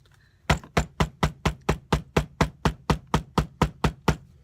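Hammer pounding a basil leaf onto paper in quick, even strikes, about four a second, starting about half a second in and stopping just before the end. The leaf is being hammered to release its juice as a print, and it is slow to release.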